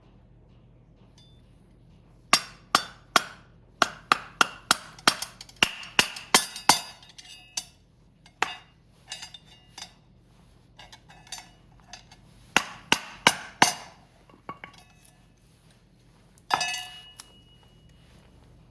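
Pieces of split firewood knocking together and against a stainless-steel Picogrill fire stand as they are laid on. The sharp, ringing clacks come in quick clusters, and one louder strike near the end rings on briefly.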